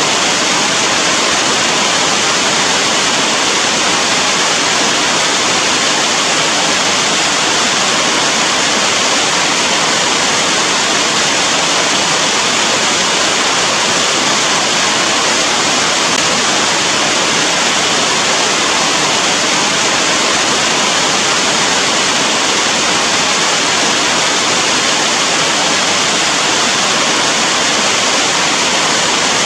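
Steady rain, an even unbroken hiss with no single drops or changes standing out.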